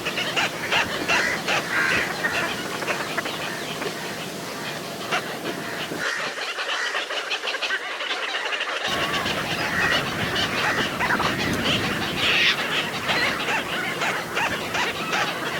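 A flock of little cormorants calling together: a dense chorus of short, overlapping honking and cackling calls with no let-up.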